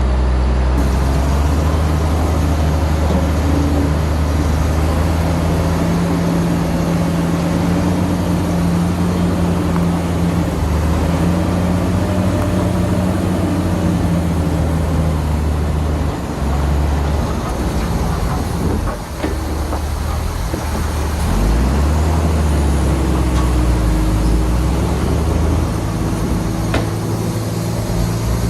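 Heavy diesel earthmoving machinery, a bulldozer and dump trucks, running loudly, the engine note stepping up and down several times, with a couple of short sharp knocks in the second half.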